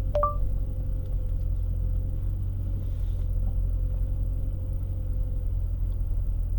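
A short rising two-note chime from Android Auto's voice assistant, opening the mic for a reply, then the steady low rumble of a Dodge Challenger Scat Pack's 6.4-litre HEMI V8 running, heard inside the cabin.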